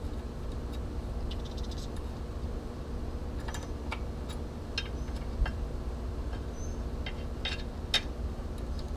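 Hand socket ratchet clicking and tools knocking against metal while the nuts holding the lower unit of an outboard motor are loosened. The sounds are irregular: a quick run of clicks, then scattered single knocks, over a steady low hum.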